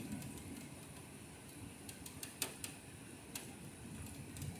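Rain: a faint steady hiss with irregular ticks of drops striking the window ledge, the sharpest about two and a half seconds in.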